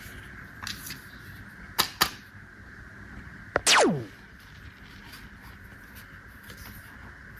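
Plastic toy pieces being handled: two sharp clicks a little under two seconds in, then a click and a short, loud sweep falling steeply in pitch a little after halfway.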